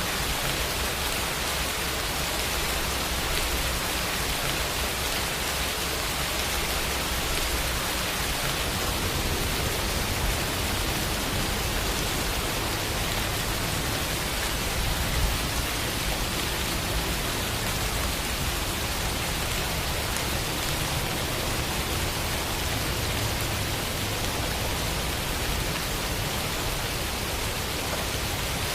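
Steady rain falling, an even hiss with faint individual drops now and then.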